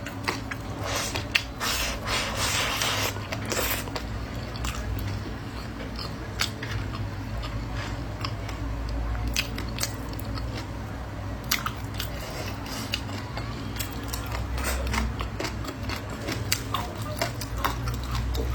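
A person chewing and biting food close to the microphone, with crunching in the first few seconds and many sharp mouth clicks throughout, over a steady low hum.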